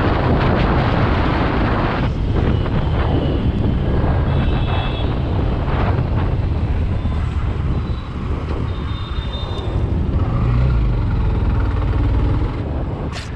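Hero Xtreme 160R's single-cylinder engine running flat out at top speed, under a heavy rush and rumble of wind on the microphone.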